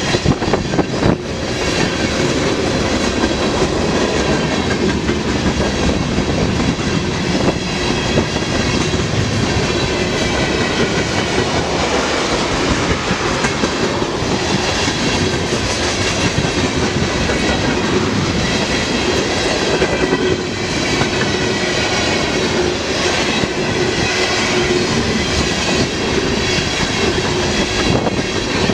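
Freight train rolling by, its wheels clicking and clattering steadily over the rails with no letup.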